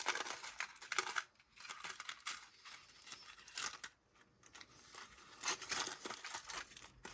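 A Hello Kitty surprise egg being opened by hand: irregular crinkling and crackling of its wrapper and shell in short bursts, with brief pauses between.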